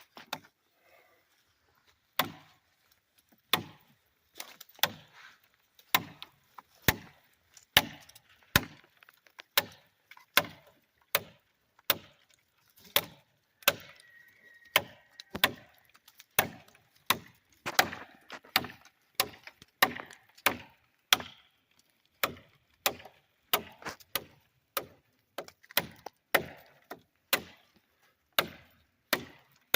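Knife blade chopping oak branches: a steady run of sharp strikes, about one and a half a second, starting about two seconds in.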